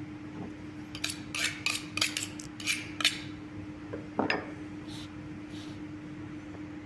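Metal kitchen utensils clinking and scraping: a quick run of sharp clinks for about two seconds, then one more scrape about four seconds in, over a steady low hum.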